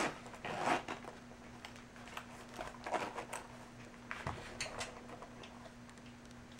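Faint rustling and scattered light clicks of hands opening a zippered leather watch case and handling the watch and its packaging, over a faint steady hum.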